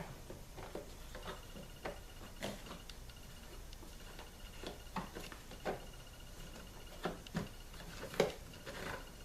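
Scattered light clicks, taps and rustles of plastic as a new engine air filter is set into the airbox and the cover is handled, the loudest click about eight seconds in.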